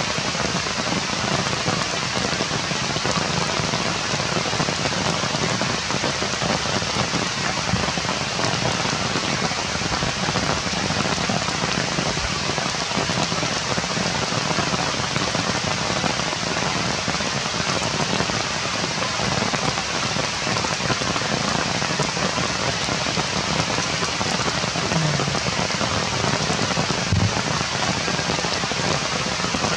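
Steady rain falling on the leaves of the trees, an even, unbroken patter of drops.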